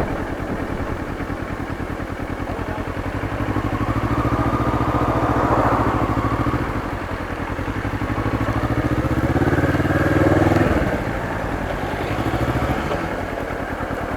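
Motorcycle engine running, most likely the restored Kawasaki Ninja under way. Its note climbs slowly for several seconds, drops sharply about ten and a half seconds in, and then runs lower and steadier.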